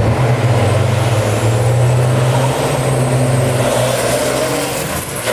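Drag-racing trucks' big diesel engines running hard at full throttle: a loud, deep, steady drone that drops briefly near the end.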